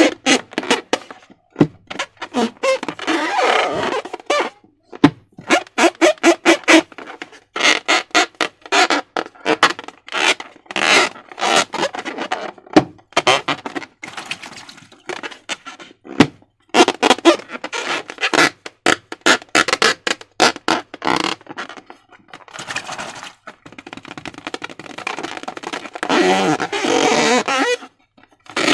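Slime and transparent rubber balloons being squeezed and handled, in short irregular bursts of squelching and rubbing, some with a pitched squeak.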